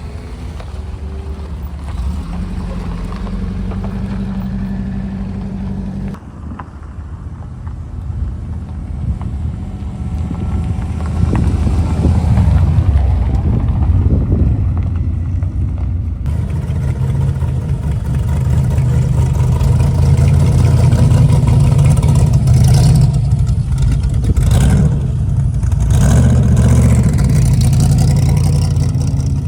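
Vehicle engines running and revving, with sudden changes about six and sixteen seconds in. The sound grows louder from about ten seconds in.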